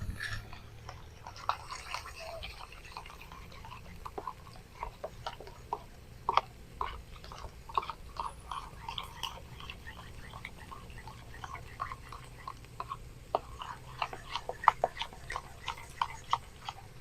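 Flour-and-water paste being mixed in a cup: a steady run of irregular soft, sticky clicks and smacks.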